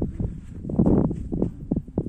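Footsteps of a person walking, a run of irregular short steps over a steady low rumble.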